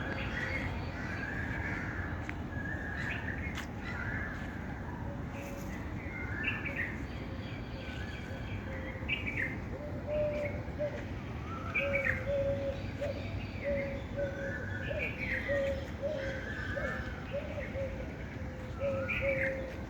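Several birds chirping with repeated short calls and quick upward sweeps over a steady background hiss. A run of lower, evenly repeated short notes joins about eight seconds in.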